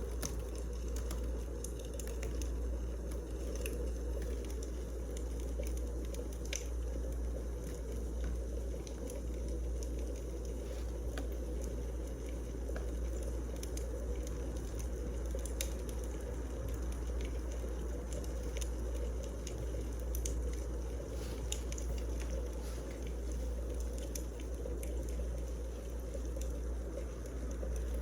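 Wood fire burning, with scattered crackles and pops over a steady low rumble.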